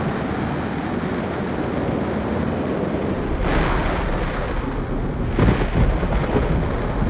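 Storm sound: a steady rushing roar like wind and rain, with low rumbling that builds about three and a half seconds in and again near the end.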